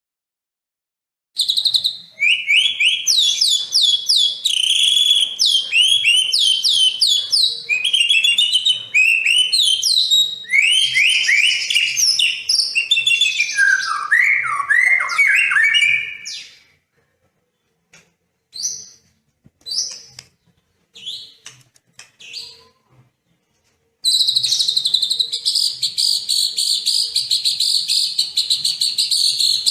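Recorded songbird song: about a second in, a loud, varied song of rapid trills and whistled phrases runs for some fifteen seconds, then thins to a few scattered short calls, and near the end a dense, high, fast chattering starts.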